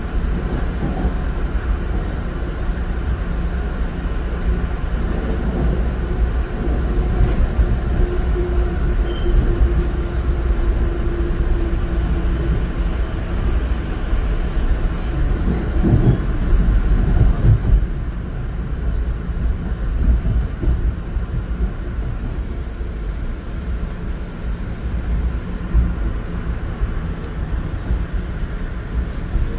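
Metro-North commuter train running, heard from inside the passenger car: a steady rumble of wheels on rails. A faint humming tone rises out of the rumble for a few seconds, and the rumble grows louder about halfway through.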